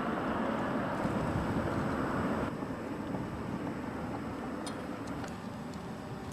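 Panavia Tornado jet engine running at a distance: a steady rumble and hiss that drops in level about two and a half seconds in. A few faint clicks sound near the end.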